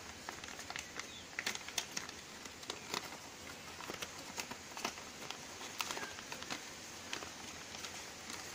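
Sheet of paper being unfolded and handled: faint, irregular crinkles and small clicks as the folds are opened out.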